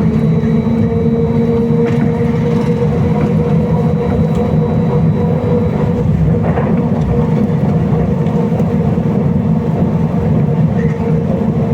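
Interior noise of a BKM-321 trolleybus under way: a steady rumble of tyres and body with a hum from the electric drive that weakens about halfway through and returns near the end.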